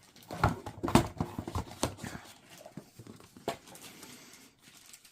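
Knocking and clattering of items and packaging being handled while a kit box is unpacked: a run of irregular sharp knocks, loudest about a second in, thinning out after about three and a half seconds.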